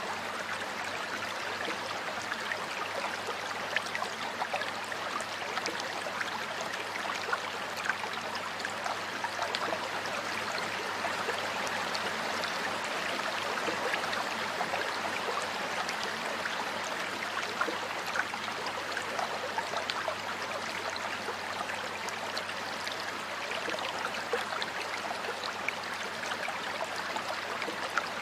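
Water flowing steadily in a stream or river, a constant rushing with small splashes and gurgles.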